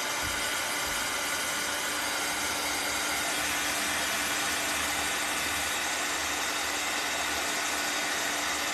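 Handheld hot-air dryer blowing steadily, with a constant hum under the rush of air, drying freshly painted wooden ornaments.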